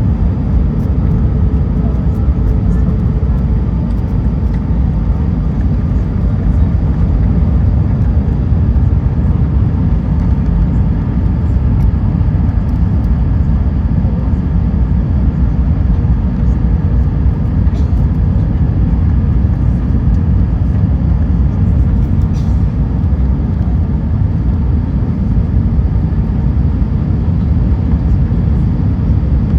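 Steady cabin noise inside an Airbus A320 airliner: an even, low rumble of engines and airflow that does not change, with a faint steady hum.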